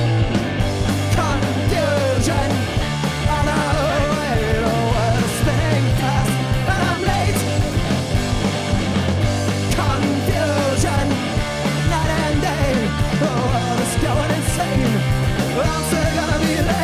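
A live rock band playing a song loudly, with a singer's voice over bass and guitars.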